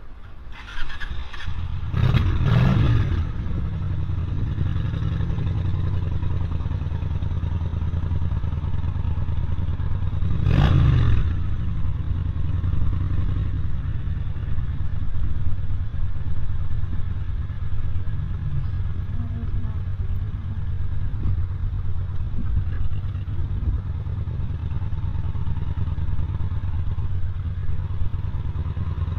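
Road traffic rumbling steadily, with two vehicles passing close by, one about two seconds in and another about eleven seconds in, each with a falling pitch as it goes past.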